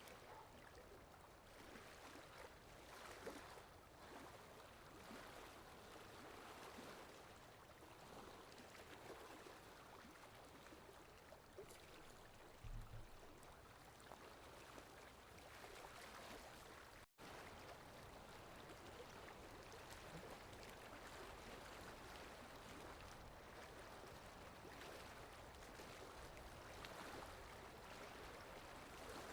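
Faint, steady running-water ambience from a looped water sound effect, with a brief total dropout a little past halfway.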